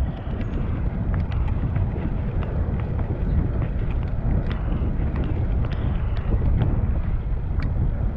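Wind rushing over the microphone while riding a bicycle: a steady low rumble, with scattered faint ticks and clicks throughout.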